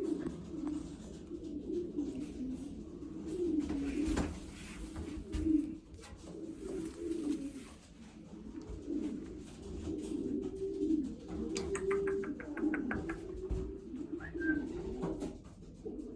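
Racing pigeons cooing over and over, many low wavering coos overlapping without a break. About twelve seconds in, a quick run of clicks.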